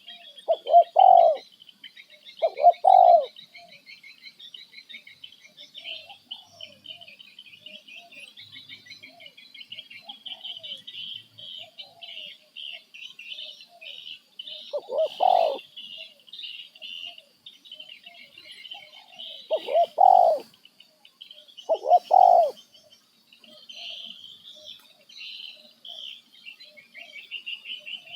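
Birds calling: a steady high chattering of chirps throughout, with five loud, short, lower calls standing out, two close together at the start and three more in the second half.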